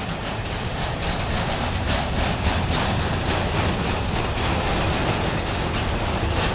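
Intermodal freight train's cars rolling past: a steady rumble of steel wheels on rail with a fast, light clatter, growing a little louder.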